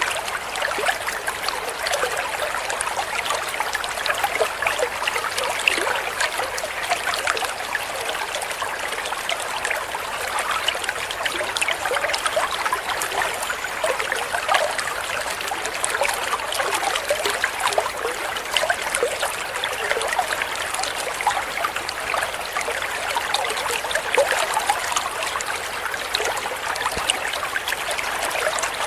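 Steady trickling, babbling water, like a small stream or fountain, running evenly throughout.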